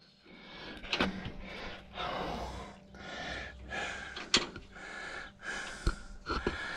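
Heavy breathing, about one breath a second, as someone strains at work on a combine, with a few sharp metallic clinks.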